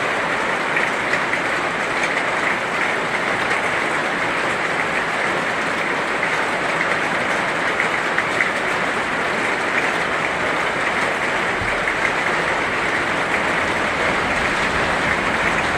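Heavy rain falling steadily: a dense, even hiss with many fine drop ticks.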